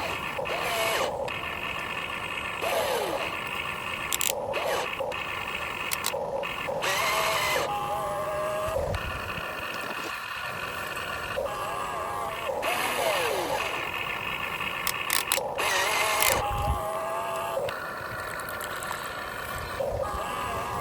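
Huina 1592 RC excavator's electric motors whining in short runs, the pitch rising and falling as the boom, arm and bucket move, with scattered sharp clicks.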